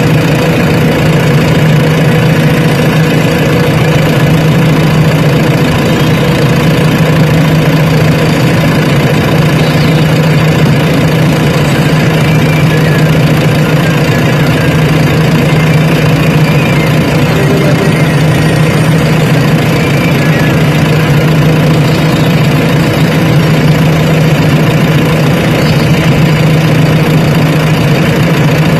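Heavy diesel engine of earth-moving machinery running loud and steady at an even speed, without revving.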